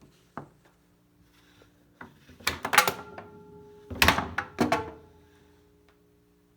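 A foosball being shot hard on a Hurricane foosball table: a series of sharp knocks as the plastic men strike the ball and it slams into the table's walls, the loudest in two clusters about two and a half and four seconds in, each followed by a brief ringing from the table.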